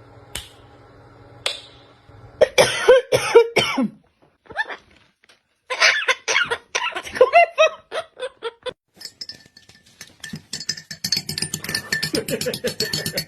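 A parrot vocalising in short, voice-like calls in three bursts, the middle one a rapid string of calls.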